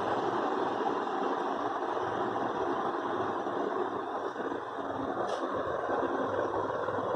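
Arge Argelux three-blade ceiling fan running: a steady whir and rush of moving air.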